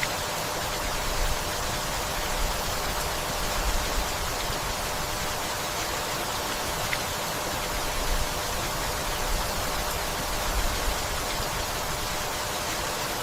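Steady gentle rain falling, an even hiss, with brief low rumbles every few seconds.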